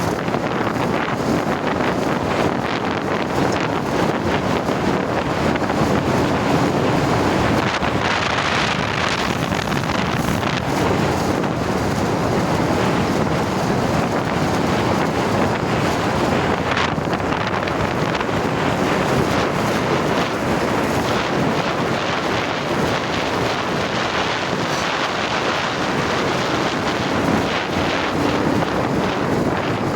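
Steady, loud wind rushing over the microphone on a moving motorcycle, with no clear engine note standing out.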